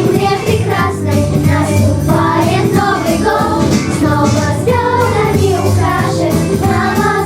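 Children's choir singing a song over an instrumental accompaniment with a steady bass line.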